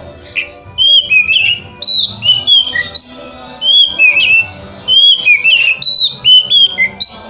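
Oriental magpie-robin (kacer) song: loud, clear whistled phrases with quick up and down sweeps, repeated in three runs with short pauses, over faint background music.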